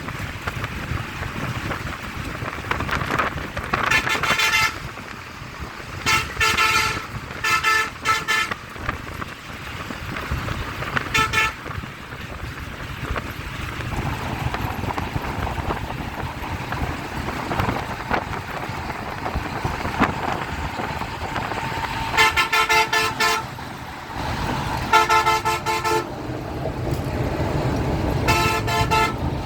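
Vehicle horns honking over steady road traffic noise. There are several separate blasts, some short toots and some held for a second or more, bunched near the start and again near the end.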